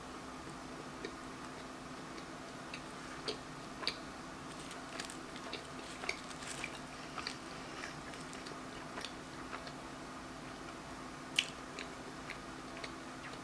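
Close-miked chewing of a bite of apple pie pizza: soft, scattered mouth clicks and smacks, with one sharper click near the end. A faint steady hum sits underneath.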